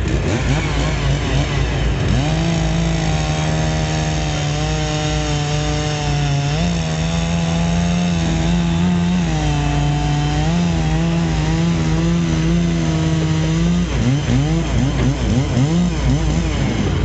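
Two-stroke chainsaw running at high revs, holding a steady high pitch that shifts a few times, then blipped up and down several times near the end. A steady low engine rumble runs underneath.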